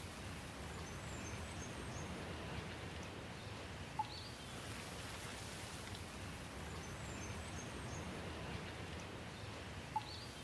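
Steady rain hiss with faint high bird chirps twice. A short, sharp tick stands out about four seconds in and again near the end.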